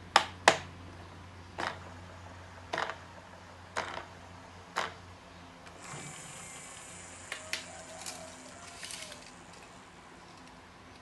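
Sharp mechanical clicks and knocks: two loud ones at the start, then single clicks about a second apart. Later a thin high hiss comes in with a few more clicks.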